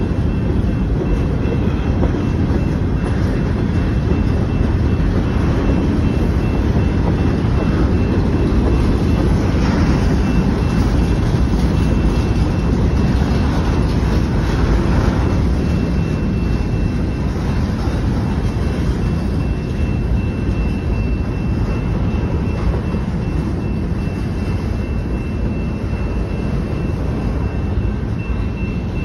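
Freight train cars rolling past a grade crossing: a steady rumble of wheels on rail, with a faint steady high tone above it.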